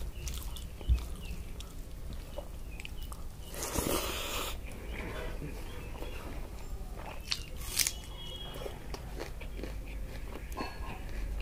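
Close-miked eating by hand: chewing and biting, with small clicks and smacks of the mouth and fingers working rice on a plate. One louder, crunchy bite about four seconds in.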